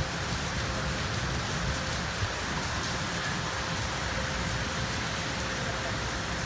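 Steady rain falling on rooftops: an even, unbroken hiss.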